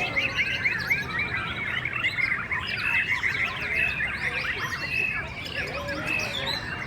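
Many caged white-rumped shamas singing at once: a dense chorus of overlapping whistled and chattering phrases.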